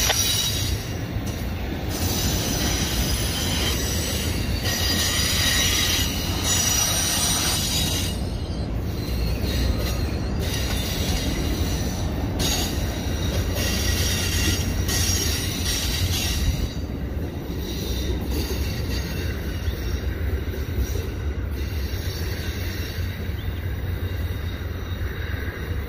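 Amtrak Superliner passenger cars rolling past at low speed as the train departs. Wheels squeal in high tones through the first several seconds over a steady low rumble. The sound eases a little after the last cars pass, about two-thirds of the way in.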